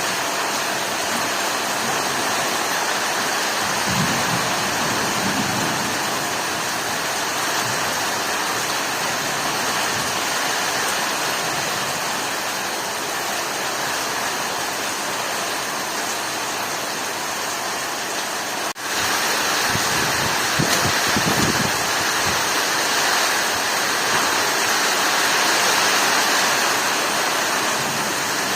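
Heavy rain pouring steadily, with a few low rumbles. A brief dropout about nineteen seconds in, after which the rain is a little louder.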